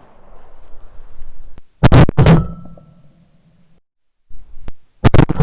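Two bursts of loud thuds and knocks, about three seconds apart. Each is a few quick hits followed by a brief metallic ring.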